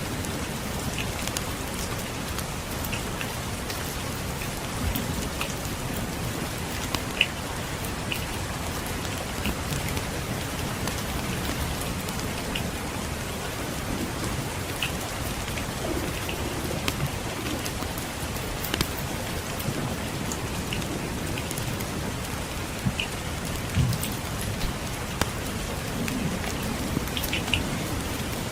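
Steady rain falling, with scattered sharp pops and ticks of a crackling wood fire over it and a low rumble underneath.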